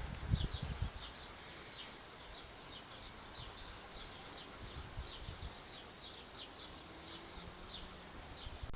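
A bird chirping over and over, short high chirps a few each second, over a faint steady outdoor hiss; a low rumble fades out in the first second or so.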